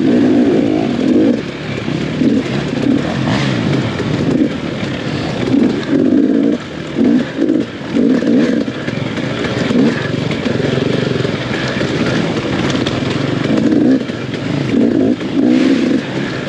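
Off-road dirt bike engine revving hard and falling off again and again as the throttle is opened and shut in quick bursts while racing.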